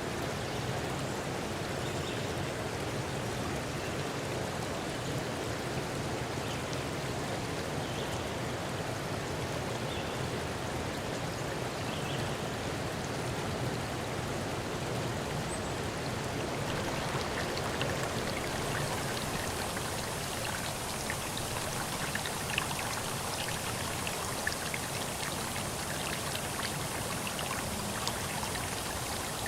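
Steady rushing of running water, like a stream; in the second half a brighter patter of many small drops, like rain, joins it.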